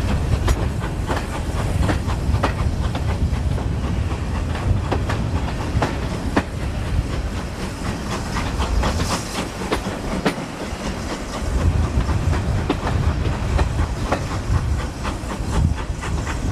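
Railway carriage wheels clicking over rail joints at an uneven pace under a steady low rumble, heard on board a moving train, with a brief hiss about halfway through.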